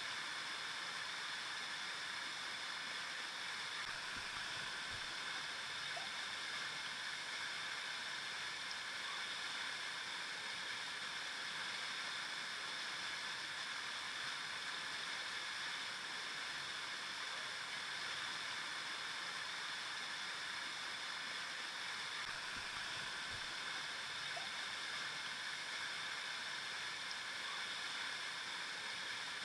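River water flowing and rushing steadily over rocks, an even hiss with no breaks.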